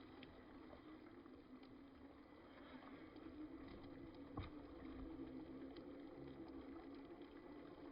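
Radio-controlled off-road buggy running, heard faintly: a steady motor hum over an even hiss, with one sharp knock about four and a half seconds in.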